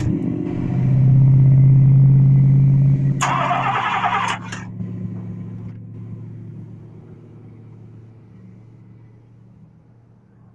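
1997 Chevrolet Tahoe engine being cranked and trying to start: a strong steady run for about three seconds, a short harsh burst, then the sound dies away gradually over the remaining seconds. It is a no-start fault, though the truck is getting fuel, the battery is good and the alternator is new.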